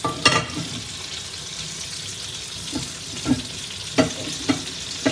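Beef and freshly added vegetables frying in hot oil in a cast-iron wok, a steady sizzle. A metal spatula knocks and scrapes against the wok about six times, loudest just after the start and then in a cluster towards the end.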